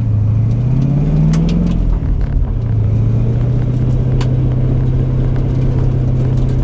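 1989 Mustang GT's 5.0 V8 running at low revs. The revs rise briefly about a second in, drop back, then hold steady.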